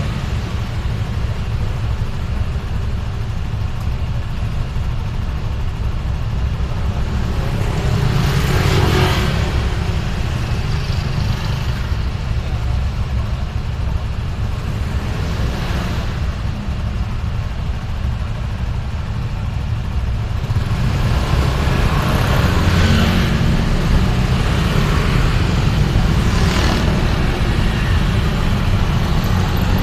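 Road traffic noise from a vehicle driving through town: a steady low rumble, with louder swells about four times as other vehicles pass.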